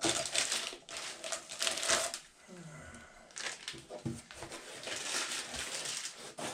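Plastic packaging crinkling and rustling in irregular bursts as it is handled and opened to get a new toilet repair tube out.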